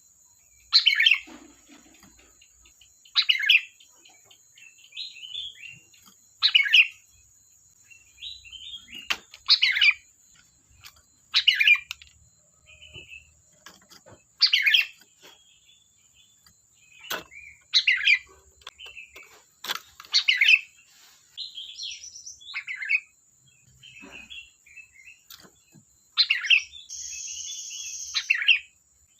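Sooty-headed bulbul (kutilang) singing vigorously: loud short whistled phrases repeated every two to three seconds, with softer chattering notes between them. A faint steady high whine runs underneath, and a short buzzy hiss comes near the end.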